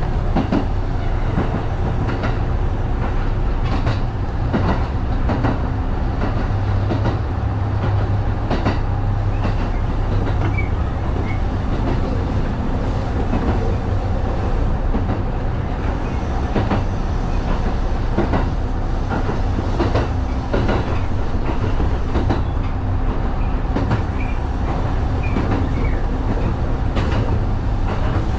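Kintetsu 1010-series electric train running along the track, heard from the front of the train: a steady low rumble with a faint motor hum and irregular clicks as the wheels pass over rail joints.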